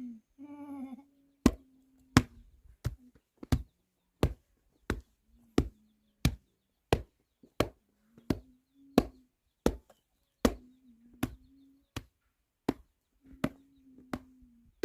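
Steady chopping blows, about three every two seconds, each a sharp crack, likely a blade cutting wood while work goes on.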